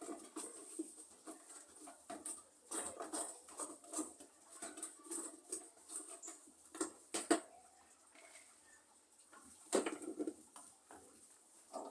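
Hands working with soil, pots and plants: scratchy rustling and scraping with scattered light knocks, the loudest a few sharp knocks about seven and ten seconds in.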